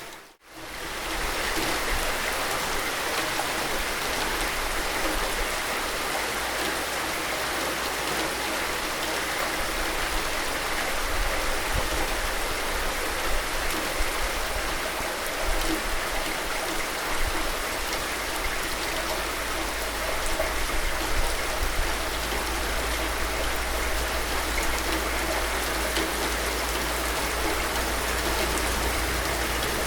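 Steady rain falling, an even hiss of many drops, which drops out almost to silence for a moment just after the start.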